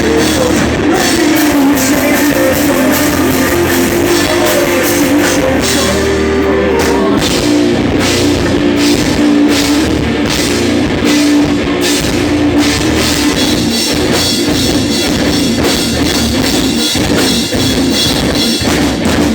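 A pop punk band playing live, loud and dense, with a drum kit and rock instruments driving a steady beat.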